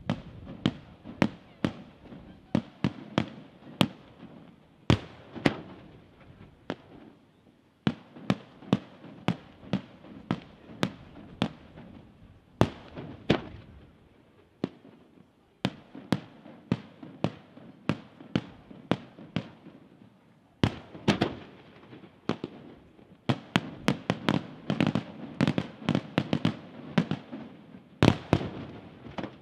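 Aerial fireworks shells bursting in quick succession, sharp bangs about two a second with a rumbling, crackling haze between them, broken by a few short lulls.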